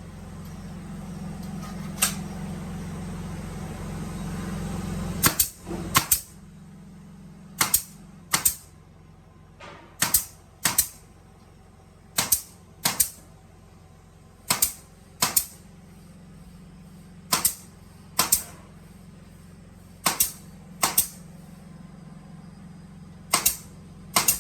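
Woodworking drilling machine running: a low motor hum swells for about five seconds, then sharp mechanical clacks come in pairs, the two about a second apart, repeating every two to three seconds, eight pairs in all.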